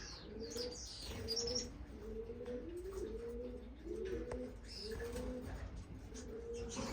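Caged birds calling in a bird room: a low call that rises and falls, repeated over and over about every two-thirds of a second, with high chirps of small finches in the first second and a half.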